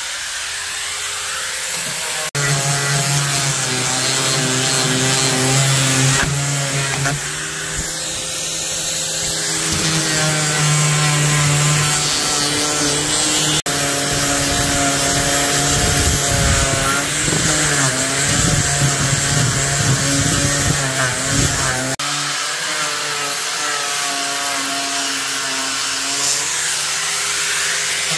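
Workshop power-tool work: an electric tool's motor runs under load, its pitch sagging and recovering as it bites, in several clips joined by abrupt cuts.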